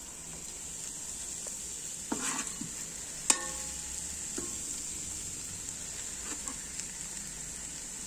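Cabbage and egg sizzling in an electric rice cooker pot with a steady hiss, while the food is stirred lightly. A utensil scrapes and knocks against the pot a few times, the sharpest knock a little over three seconds in.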